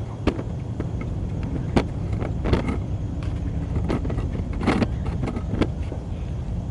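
Soft-bristled wheel brush scrubbing a wet truck wheel in short, uneven strokes, over a steady low rumble.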